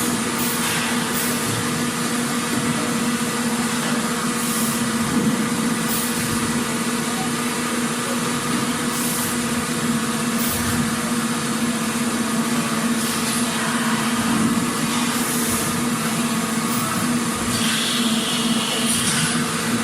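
Factory machinery running steadily: a constant low hum under a dense mechanical noise, with short hissing bursts now and then and a brief higher whine near the end.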